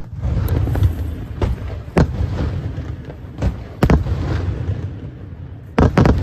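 Fireworks display: sharp bangs of aerial shells bursting over a continuous low rumble, with single bangs spread through and two in quick succession near the end.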